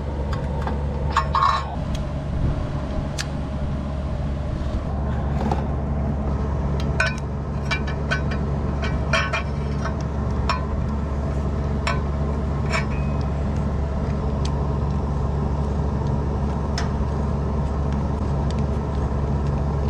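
Chevy Malibu's engine idling steadily, with scattered light clicks and taps over it.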